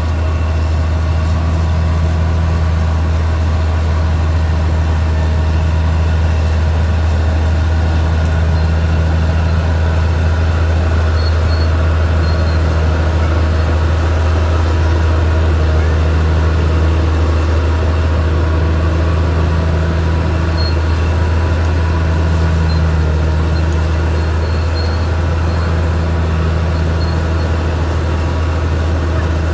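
Caterpillar D6R XL bulldozer's diesel engine running steadily under work, a deep hum with a higher note that swells and fades every few seconds.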